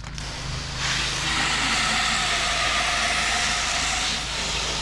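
A pressure washer's wand spray hitting the side of a house gutter: a steady rushing hiss that comes in about a second in. Under it runs the steady hum of the pressure washer's engine.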